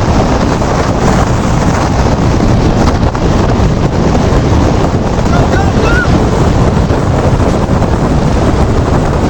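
Loud, steady rushing noise with no clear pitch or rhythm, typical of wind blowing across the microphone.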